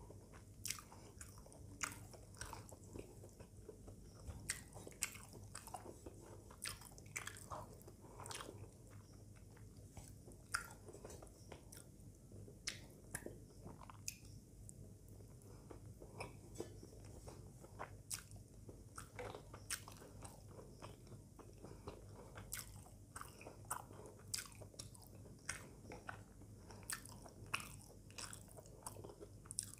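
Close-miked mouth sounds of a person eating rice and egg curry by hand: soft chewing with many short, wet clicks and smacks scattered throughout.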